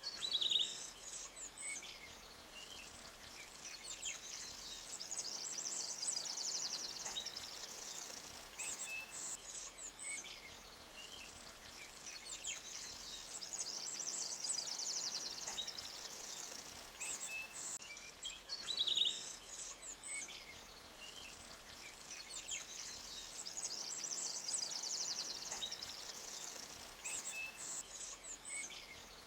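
Forest ambience of small songbirds chirping and trilling over the faint steady rush of a stream. The same calls come back about every nine to ten seconds, as in a looped recording.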